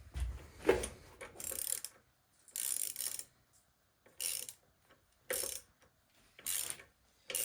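Hand ratchet running a bolt down: about five short bursts of pawl clicking, roughly one a second, one on each back-swing of the handle.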